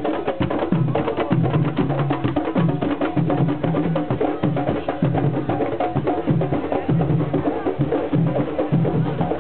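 Live percussion: low drum beats in a steady repeating rhythm, with quick sharp wooden clicks over them.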